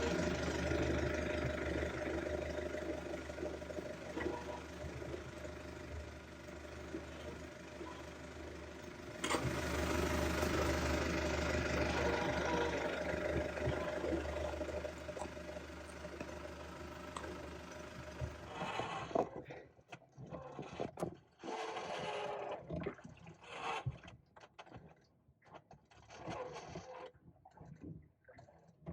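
A boat's inboard engine running steadily under way, a low hum under a wide rush of noise. About 19 seconds in this gives way to quieter, broken rubbing and scraping with a few sharp knocks.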